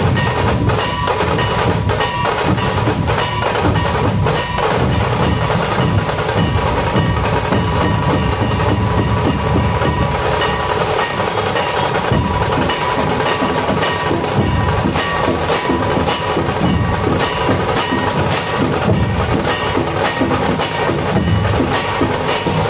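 Loud procession music dominated by dense, continuous drumming, with a few held melodic tones over it.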